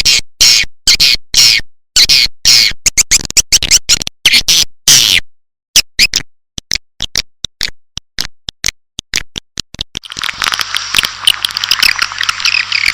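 Swiftlet call-sound recording of the kind played to lure swiftlets: a rapid string of sharp chirps and clicks that pauses briefly about five seconds in and thins out. About ten seconds in it turns into a dense chorus of overlapping twittering chirps over a low hum.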